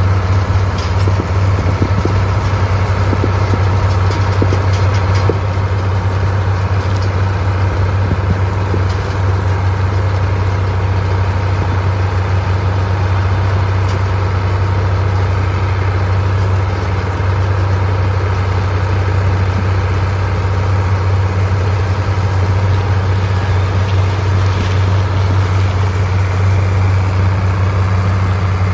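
Tractor engine running steadily under load, a constant low drone.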